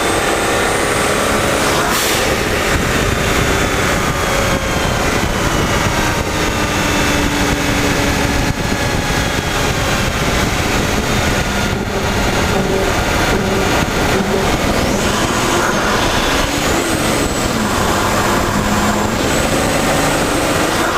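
Mercedes-Benz CL600's twin-turbo M275 V12 running loud under way, its pitch falling over the first few seconds and then holding steady. A sharp click comes about two seconds in, and a thin high whistle glides up near the end.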